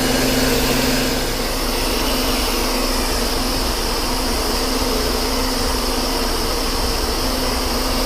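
Metal lathe roughing a steel shaft with a carbide insert: steady cutting noise with a thin high ring above the hum of the machine.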